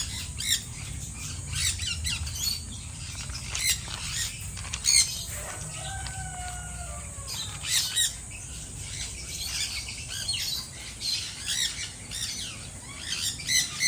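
Birds chirping and squawking in short, repeated calls over a steady low rumble, with one longer call about halfway through.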